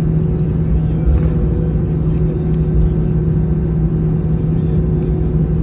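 Airbus A320 cabin noise from its CFM56 engines and airflow: a steady low rumble with a constant hum that does not change in pitch.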